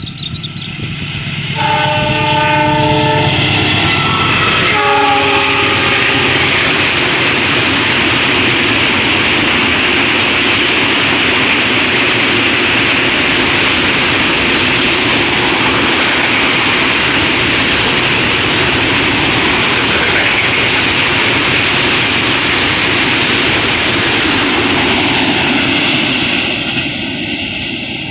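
A train's horn sounds a long blast then a short one near the start, and the train then runs through the station with a loud, steady rush of wheels on rails for over twenty seconds, fading near the end.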